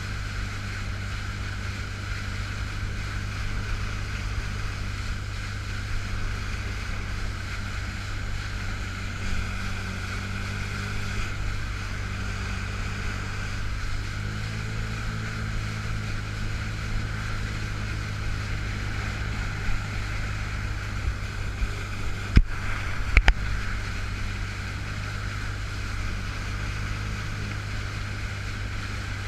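A 2005 Yamaha FX Cruiser H.O. personal watercraft running steadily under way, with a hiss of wind and spray; its engine note shifts about halfway through. A few sharp knocks come about three-quarters of the way in. The craft is stuck in its low-power mode, limited to about 85% power.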